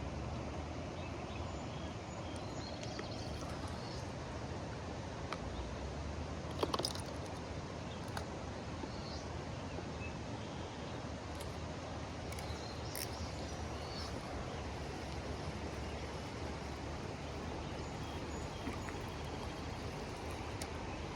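Steady rushing of river rapids, with a few faint bird chirps and one brief knock about seven seconds in.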